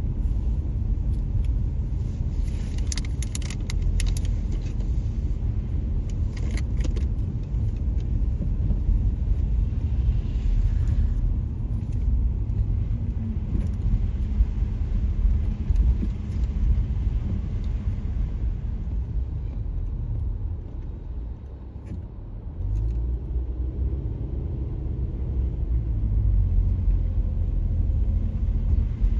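Car cabin road noise while driving: a steady low rumble of tyres and engine, dipping briefly about three-quarters of the way through. A few seconds in there are two short spells of light metallic jingling, like keys swinging on the ignition key ring.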